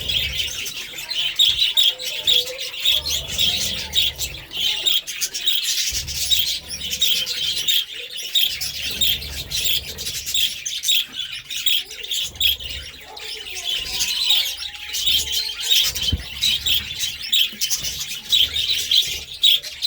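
Budgerigars chirping and warbling in a continuous, fast, high-pitched chatter.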